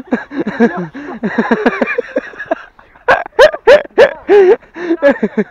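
Several people's voices, loud and excited, with calls and laughter; the loudest, highest calls come about three seconds in.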